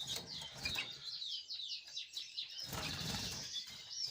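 Small caged finches and canaries chirping, a quick run of repeated high chirps, with a short low rustle about three seconds in.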